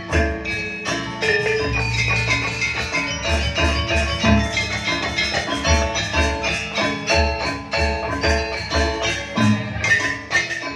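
Gamelan accompaniment for a janger dance: metallophones play a busy, repeating melody of struck bronze notes over regular low drum strokes.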